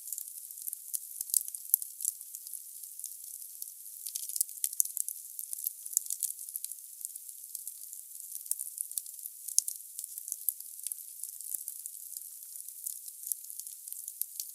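Logs burning in a fireplace, crackling and hissing: a steady high hiss broken by frequent, irregular sharp pops.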